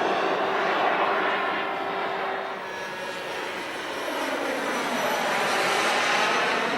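Engine of a radio-controlled F-16 model jet in flight, a steady whoosh that fades about three seconds in and then swells again as the jet passes.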